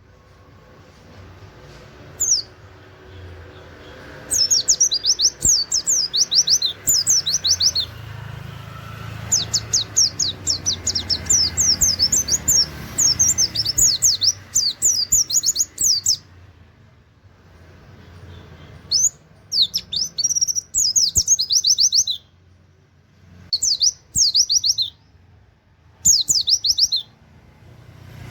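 A white-eye (pleci) singing fast runs of high, sharply sweeping chirps in repeated bursts, the canary-like "wit wit" notes that make the song useful as a tutor song for training other birds. The runs last a few seconds each: the longest is about seven seconds, and the later ones are shorter and broken by brief pauses.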